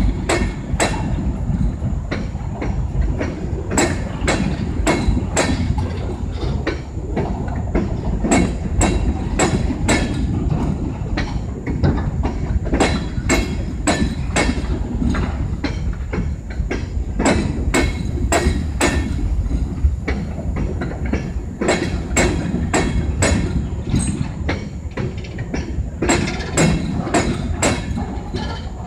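Empty steel coal hopper cars rolling past close by: a steady low rumble broken by sharp clacks and knocks in quick clusters as the wheels cross rail joints.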